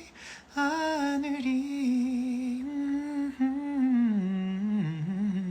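A man singing unaccompanied in a soft, hum-like voice. A short breath at the start, then long held notes that step down in pitch about four seconds in.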